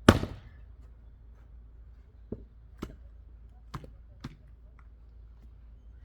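One loud axe strike into wood, then four quieter knocks of wood on wood a couple of seconds later.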